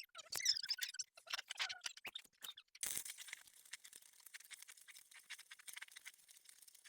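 Stick (shielded metal arc) welding on a truck frame: irregular scratchy bursts for the first few seconds, then a steady fine crackle and hiss of the arc burning from about three seconds in.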